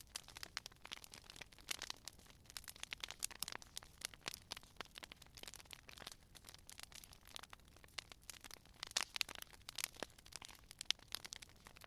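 Campfire crackling: burning wood giving off a steady stream of irregular pops and snaps, with a burst of louder pops about nine seconds in and a sharp snap near the end.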